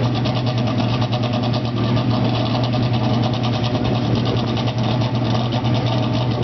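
Race-spec Ferrari 360's V8 idling steadily through a racing exhaust, a constant low hum with an even pulsing.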